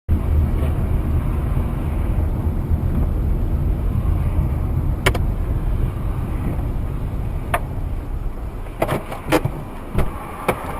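A moving car's steady low engine and road rumble, with a few sharp knocks in the second half.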